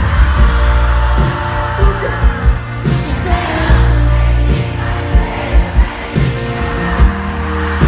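Live sertanejo-pop concert music: the band plays with a pounding kick drum and bass under singing.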